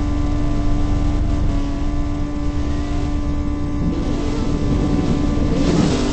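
A car engine running loudly at steady, held revs with a heavy low rumble and a constant drone. Near the end there is a brief rushing noise.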